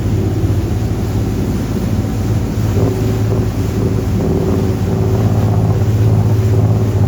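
Twin Cummins 8.3-litre diesel engines of a 44-foot Sea Ray Sundancer cruiser running steadily under way at speed, a deep even drone, with wind buffeting the microphone and water rushing past the hull.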